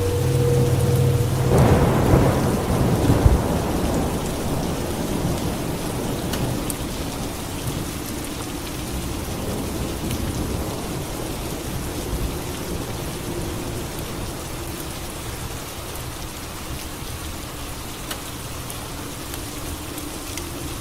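Steady heavy rain with a thunderclap rumbling about two seconds in, which slowly fades away under the rain.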